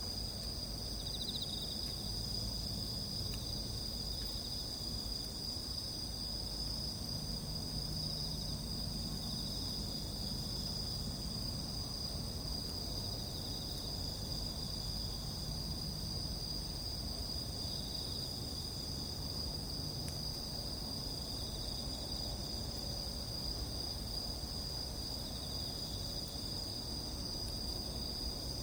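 Chorus of insects trilling steadily at a high pitch, over a low, even rumble.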